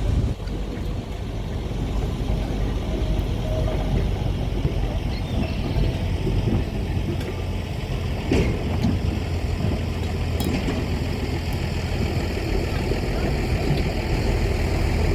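Steady low hum of a heavy vehicle running at the tram depot, with a sharp knock about eight seconds in.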